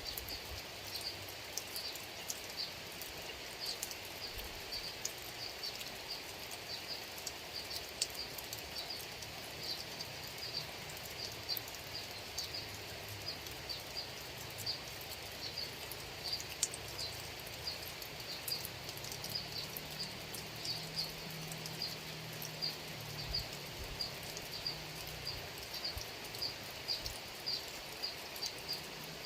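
Steady rain with scattered drops ticking close by. A short, high chirping call from a small animal repeats about twice a second throughout.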